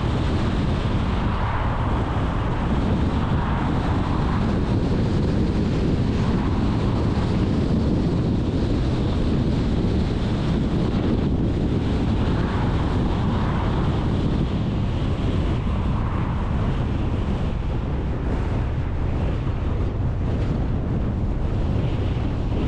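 Steady rumble of a car on the move, with wind noise on the microphone.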